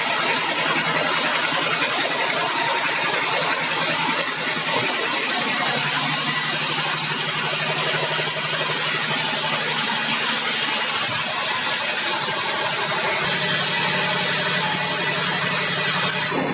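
Sawmill band saw and its drive engine running, a loud, dense mechanical noise over a steady low hum that shifts in pitch about five seconds in and again about thirteen seconds in.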